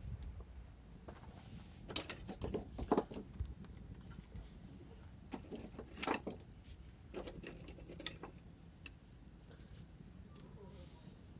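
Wood fire crackling, with irregular sharp pops that come thickest about two to three seconds in and again around six seconds.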